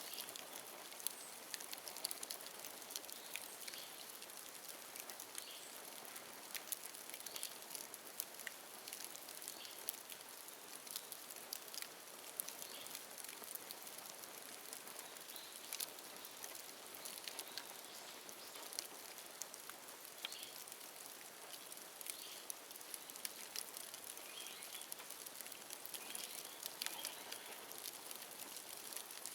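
Bonfire of dry bamboo crackling steadily, with frequent small sharp pops over a faint hiss.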